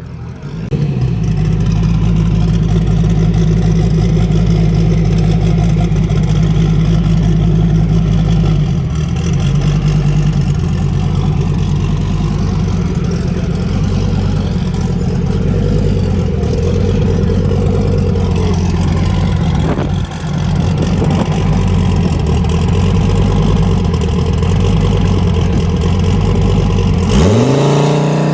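Loud engine running at a steady speed for a long stretch, its pitch shifting slightly partway through, with a short rise in pitch near the end.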